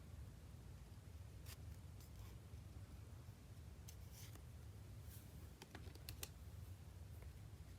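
Faint, scattered clicks and rustles of trading cards and their packaging being handled, a few light taps in a cluster about six seconds in, over a low steady hum.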